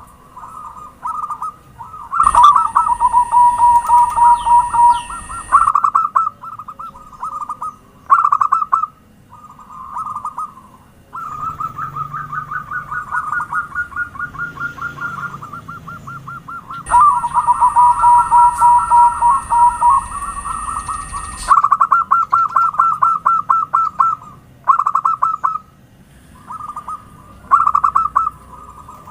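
Zebra doves cooing in repeated phrases of rapid staccato notes, phrase after phrase with short pauses between. During two of the longest phrases a faint steady high tone sounds alongside.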